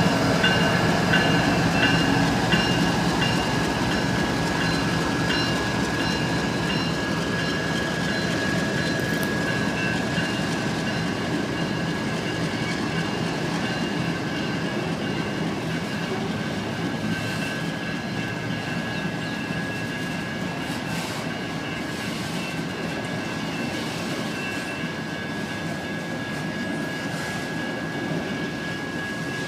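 Freight train of BNSF autorack cars rolling through a grade crossing: steady wheel-on-rail rumble and clatter, loudest at first and slowly easing off. Over it the crossing's electronic bells keep ringing, a high repeating ding.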